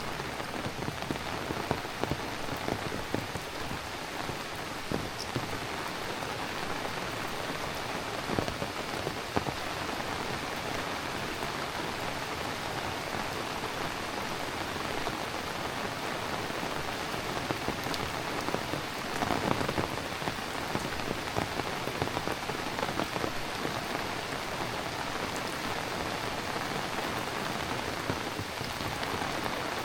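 Heavy rain falling steadily, with many sharp drop impacts ticking through it and a brief louder swell about twenty seconds in.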